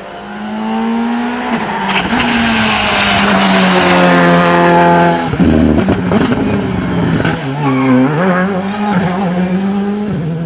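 Rally car engine at full throttle, its note climbing in pitch and getting louder as it approaches. About five seconds in the note cuts off abruptly with a short low rumble, then the revs rise and fall unevenly, dipping sharply about eight seconds in.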